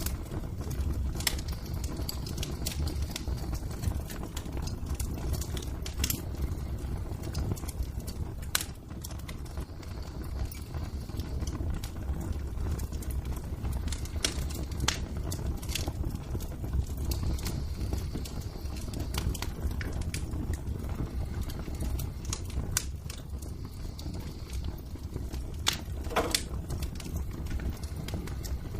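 Wood fire crackling in a fireplace: a steady low rumble of burning with scattered sharp pops and snaps, and one louder, longer crackle near the end.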